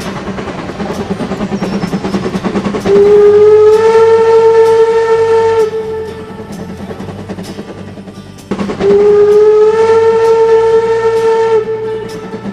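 Rail King toy train's electronic steam-whistle sound effect: two long blasts about three seconds each, each rising slightly in pitch as it starts, over the train's running noise.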